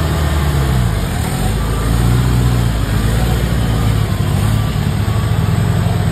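Engine of a modified Jeep-style off-road 4x4 revving up and down as it works through a deep rut, then holding a steadier rev toward the end.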